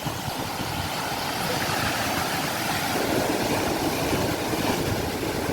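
Sea waves washing in as a continuous rushing noise, swelling a little louder a second or two in.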